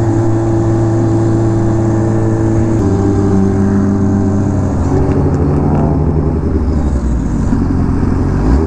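A sport motorcycle's engine running while it cruises, at loud steady revs, its pitch shifting up and down a few times as the speed changes, over a rush of road and wind noise.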